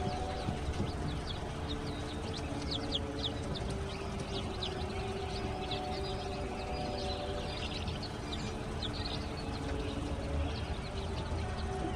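Many chicks peeping, a constant stream of short, high, falling cheeps, over a steady low hum.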